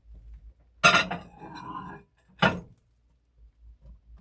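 Dishes and containers being handled on a counter: a sharp clatter about a second in, followed by a brief rattle, then a second sharp knock about a second and a half later.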